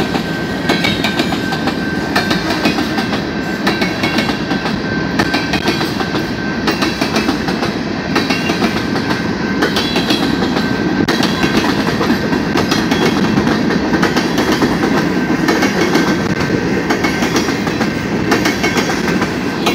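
Freight train of covered hopper cars rolling steadily past, a continuous rumble of wheels on rail with rapid clacking over the rail joints. A thin, steady high tone runs through it.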